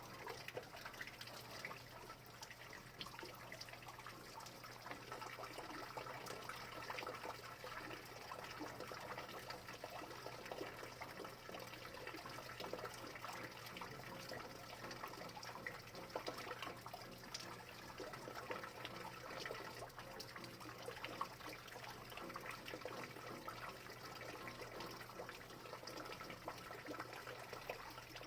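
Rain falling steadily, a dense run of small drop ticks over trickling water, with a faint low hum underneath.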